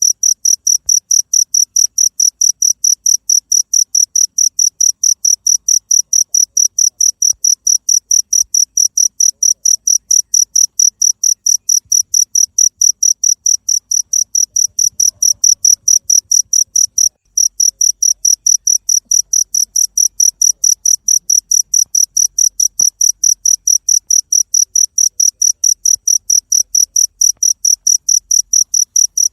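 Cricket chirping, an even, high-pitched pulse about four times a second, broken once for a moment a little over halfway through.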